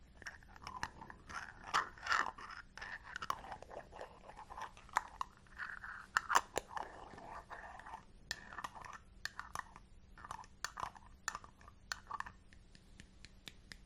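Glass jar of hair balm handled close to the microphone: irregular sharp taps and clicks, with short crackly, sticky rubbing sounds in between. These thin out for the last couple of seconds.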